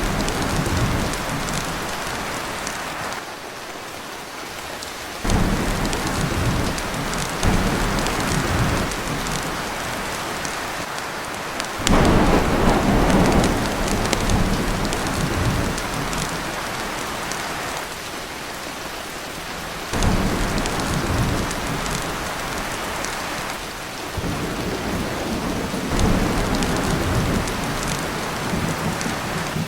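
Heavy, steady rain drumming on a tin roof, with rolls of thunder that swell up abruptly about four times and rumble away slowly.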